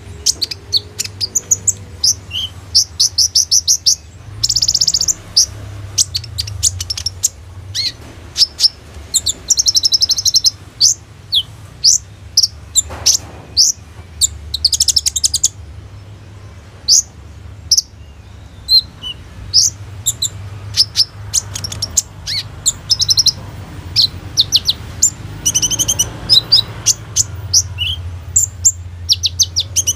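Kolibri ninja sunbird singing hard, a fast run of high sharp chirps, buzzy trills and short whistled phrases with hardly a pause. A steady low hum lies under the song.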